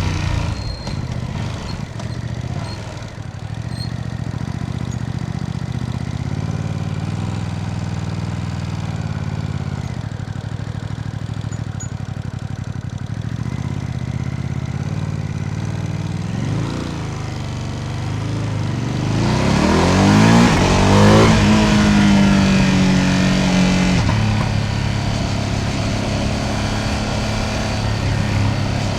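Ducati Panigale V2S's V-twin engine running steadily at low revs, then about two-thirds of the way in the revs climb sharply as it accelerates hard, staying high for a few seconds before easing back to a steady run.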